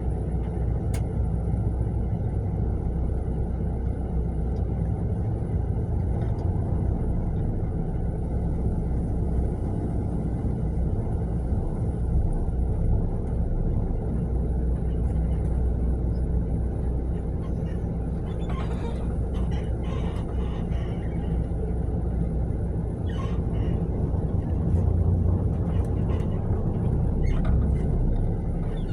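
Mercedes-Benz long-distance coach bus on the move: a steady low rumble of engine and road noise.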